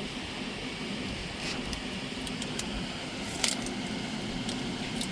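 A steady low hum with a few light clicks and handling knocks, the sharpest about three and a half seconds in.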